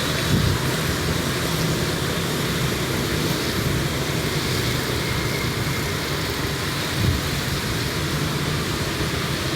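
Steady rain with road traffic running underneath: a continuous hiss over a low rumble.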